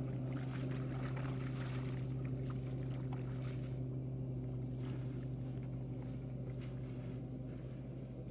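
Harvesting tractor's engine running with a steady drone that slowly fades as it moves away.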